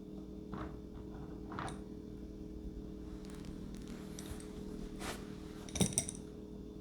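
Small parts being handled during model-plane assembly: a few light rustles, then two sharp clicks close together about six seconds in, over a steady low hum.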